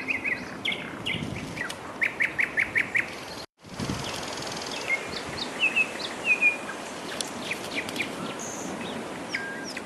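Songbirds chirping and calling, with a quick run of five short descending notes about two seconds in and scattered high chirps throughout. The sound drops out completely for a moment about three and a half seconds in.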